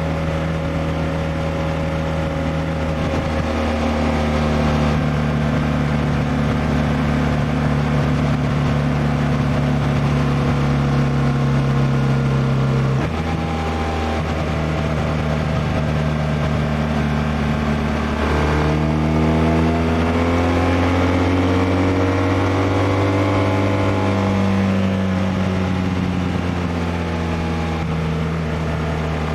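BMW R1200R boxer-twin motorcycle engine running while the bike is ridden. Its note shifts abruptly twice in the middle, then rises and falls again over several seconds.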